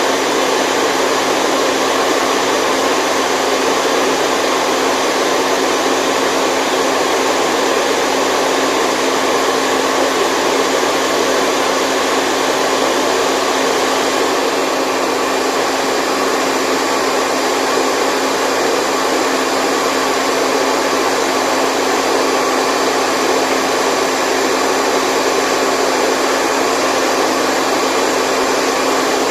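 Continuous white noise for sleep: a steady, even rushing sound that does not change, strongest in the middle range, with a faint steady hum running through it.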